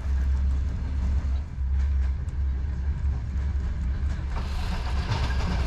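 Old Soviet-built passenger train running along the line, with a steady low rumble of the wheels on the track. About four seconds in, a rattling clatter joins in.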